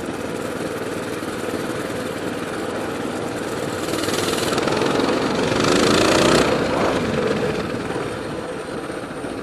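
Coleman BT200X mini bike's small single-cylinder engine running while ridden, de-restricted with its governor removed. It gets louder about four seconds in as it revs up, pitch climbing, then eases back a couple of seconds later.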